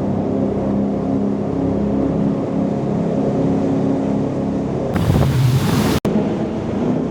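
Jet boat's engine running with a steady drone, then about five seconds in a loud rush of water and spray for about a second as the boat spins out, followed by a momentary break in the sound.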